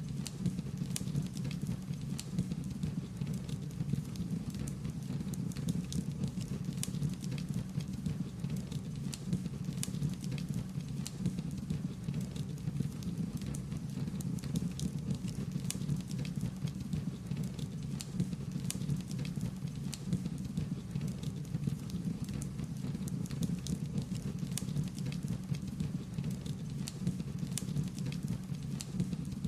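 Wood fire burning, crackling with many irregular sharp pops and snaps over a steady low rush of flame.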